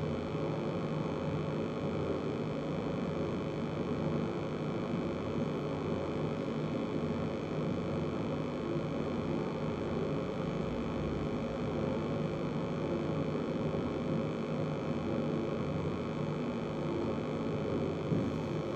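Steady hum and hiss of background room noise, with no breathing strokes or other events standing out.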